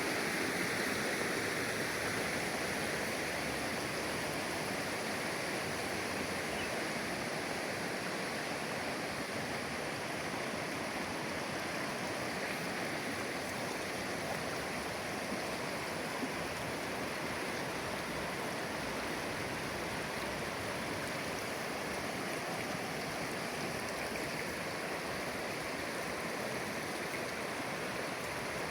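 Shallow river water flowing and burbling over stones in a steady rush.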